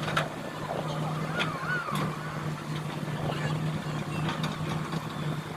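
Engine running steadily, a low hum, with scattered sharp knocks and clanks and faint voices in the background.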